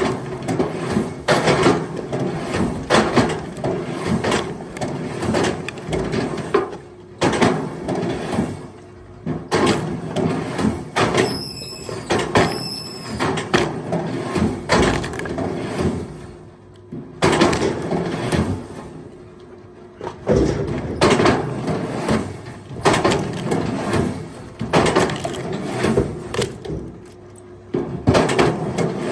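Firewood logs knocking and clattering as they are thrown onto a pile, again and again at an uneven pace, over a steady engine hum.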